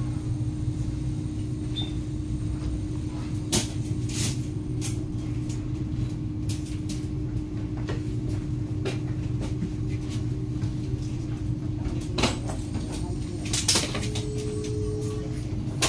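Steady low hum inside a stationary high-speed train carriage, from the train's running onboard equipment, with a few sharp knocks and clicks, two about 3 to 4 seconds in and two more about 12 to 14 seconds in.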